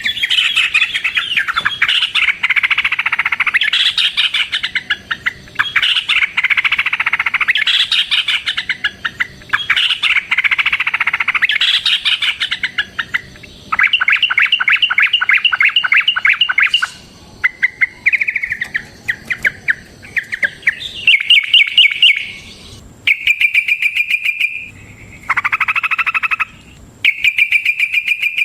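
Yellow-vented bulbul (trucukan) singing its long rapid song: loud chattering bursts, each a second or two long, with short gaps. In the second half the phrases become shorter, quicker rattling trills.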